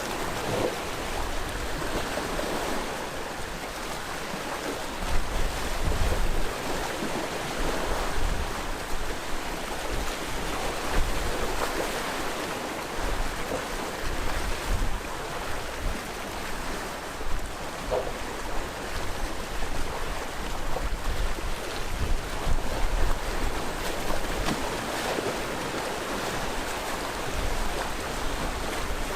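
Sea waves washing steadily onto the shore, with wind buffeting the microphone in low rumbling gusts.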